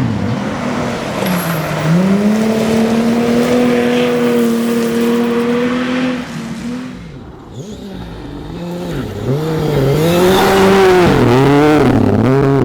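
Rally car engine at high revs, its pitch held fairly steady for a few seconds, then fading briefly about seven seconds in. Near the end it revs up and down repeatedly in quick rises and falls.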